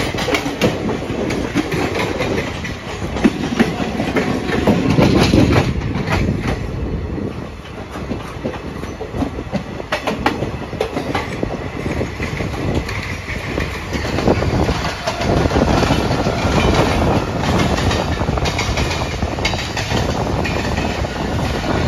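Passenger express train running along the track, heard from aboard a coach: steady wheel-on-rail noise with irregular clicks as the wheels cross rail joints. It grows louder around five seconds in, eases off for a few seconds, and swells again from about fifteen seconds.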